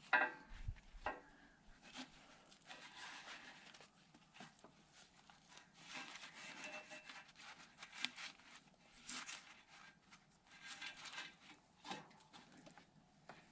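Hand work on a backhoe's hydraulic lines: a metal clank with a brief ring right at the start, then scattered small clicks, rubbing and scraping as the hose and fittings are handled.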